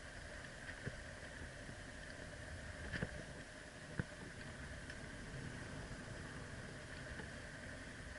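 Motorcycle running steadily at a low level, with sharp knocks about one, three and four seconds in.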